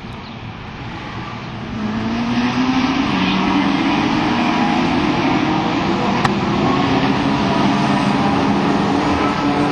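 BMW E30 race car's engine running hard at high revs, growing louder and rising slightly in pitch about two seconds in, then holding a steady drone.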